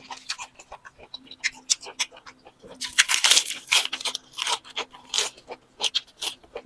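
A person chewing crunchy food close to the microphone: irregular crisp crunches throughout, with a dense, loud run of them about three seconds in.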